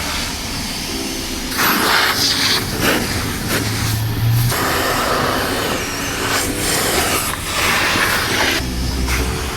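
Coin-operated self-serve car wash equipment running: a steady motor hum with repeated hissing rushes that start and stop several times.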